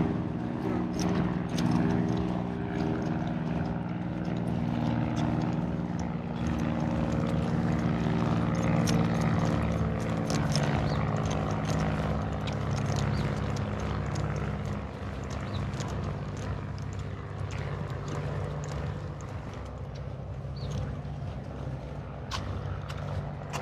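An engine's steady drone, several pitched tones together, that fades noticeably after about fifteen seconds, with scattered light clicks over it.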